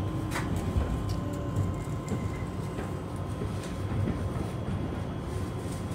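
Passenger train running on the rails, heard from inside the carriage: a steady low rumble with a few light clicks now and then.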